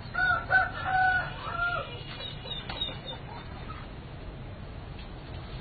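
A rooster crowing once, a broken crow of about a second and a half near the start.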